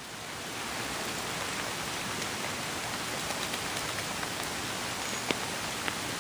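Steady rain falling on a flooded lawn and its standing water, an even hiss that swells up over the first second and then holds, with a couple of faint ticks near the end.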